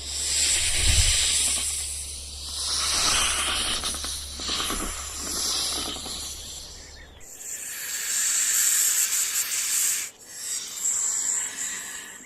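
Rattlesnake buzzing its tail rattle: a dry, hissing buzz that swells and fades repeatedly, breaking off briefly twice, about 7 and 10 seconds in.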